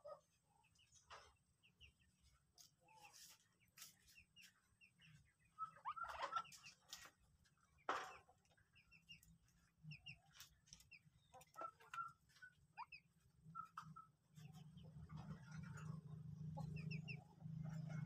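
Faint, short bird calls, scattered clucks and paired peeps, with a few light knocks. From about three-quarters of the way in, a motorcycle engine hums and grows louder as it approaches.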